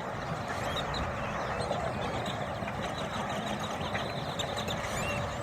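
A large flock of birds calling all at once: a steady din of many short, overlapping squeaky calls that sound like a computer glitch, over a low rumble.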